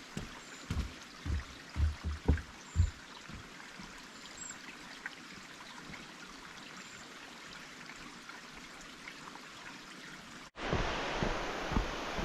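Steady rush of flowing stream or waterfall water, with a few low thumps in the first three seconds. About ten and a half seconds in the water noise jumps abruptly louder.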